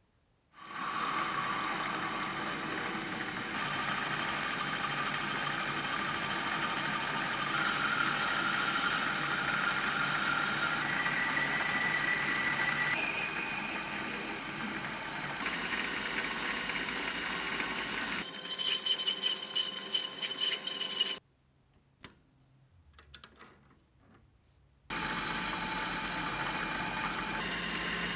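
Small electric power tools running in a string of short cuts, the motor's whine jumping to a new pitch at each cut. Near the end the noise stops for a few seconds, leaving only a few faint clicks, then starts again.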